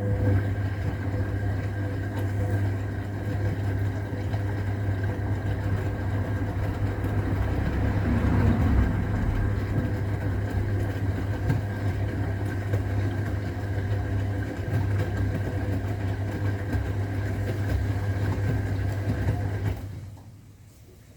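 AEG Öko-Lavamat 693 washing machine running with a steady low mains hum and a churning, watery noise, for about twenty seconds before stopping abruptly.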